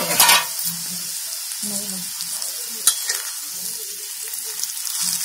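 Okra and onion sizzling in a hot cast-iron kadhai, dry-fried without water, while being stirred and tossed with a spatula. A sharp knock of the spatula against the pan comes about three seconds in.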